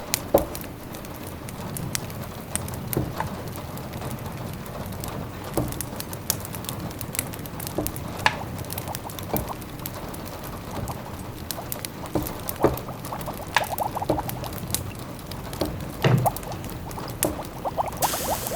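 Wood fire in a fireplace crackling, with irregular sharp pops and snaps over a low steady rumble. A pot simmering adds quick runs of small bubbling ticks, once a little past the middle and again near the end.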